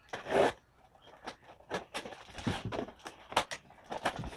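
Cardboard box being opened and handled by hand: a short loud scrape or rustle at the start, then a string of irregular taps and knocks.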